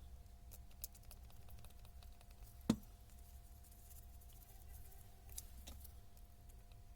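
Scattered small clicks and light handling of tool parts during a Hilti TE 80 rebuild, with one sharper knock about two and a half seconds in, over a low steady hum.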